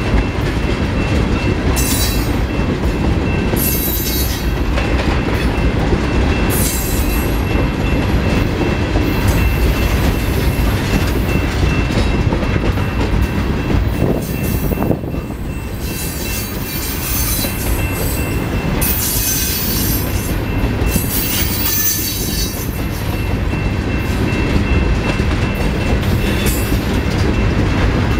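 Freight train tank cars rolling past close by: a steady rumble of wheels on the rails. Short high-pitched wheel squeals come and go every few seconds.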